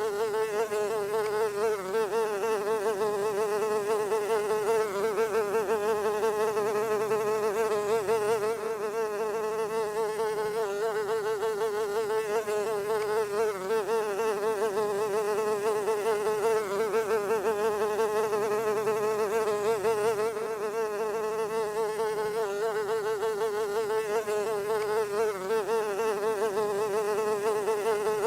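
A fly buzzing continuously, with a steady drone whose pitch wavers and whose loudness flutters as it moves.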